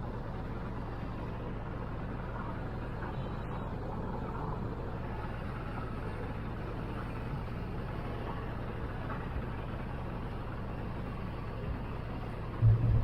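Speed boat's engine running steadily at cruising speed, a low even drone. A loud thump near the end.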